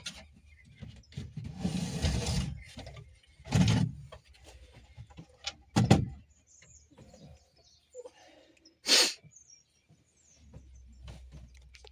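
A drawer being pulled out on homemade wooden runners: a scraping slide about a second and a half in, then several sharp knocks and thumps as it is handled.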